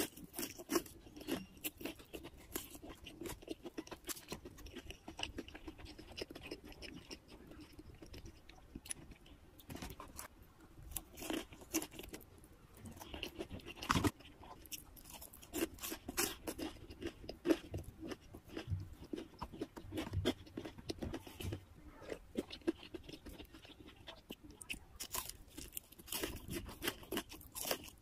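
Close-miked chewing and crunching of crispy crumb-coated fried chicken with cheese sauce, in irregular crackly bites, with one sharper crunch about halfway through.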